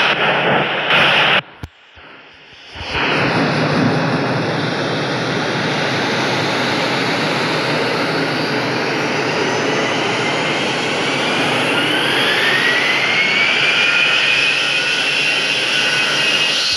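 Airbus A319-132 airliner's IAE V2500 turbofan engines at takeoff thrust: loud, steady jet noise. It drops out sharply for about a second near the start, and a whine climbs in pitch over the last few seconds.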